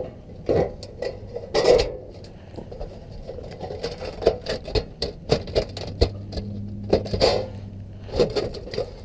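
Sheet-metal soaker flashing being handled and fitted against a roof, with scattered light knocks, taps and scrapes of metal. A low steady hum runs for about three seconds in the middle.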